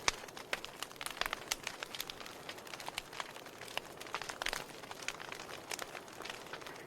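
Wood fire burning in a fireplace, crackling: a soft hiss with frequent irregular sharp pops and snaps.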